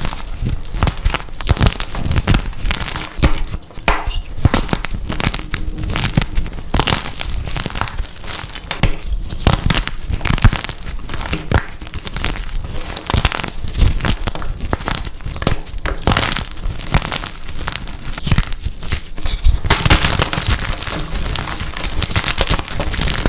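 Blocks of dyed gym chalk being crushed and crumbled, a dense run of irregular crunches and small cracks, with a thicker, hissier spell of crumbling about twenty seconds in.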